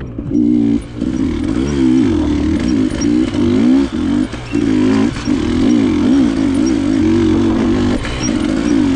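KTM enduro dirt bike engine running under constant throttle changes, its pitch rising and falling as the rider blips and rolls the throttle, with a few brief drops where it is shut off.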